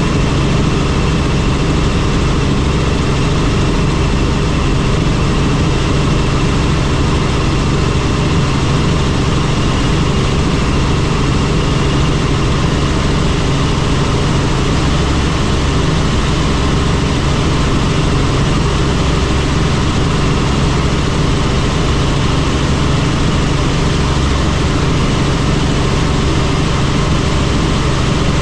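Helicopter in level flight: the engine and rotor make a steady, loud drone with a low hum and a few held tones, unchanging throughout.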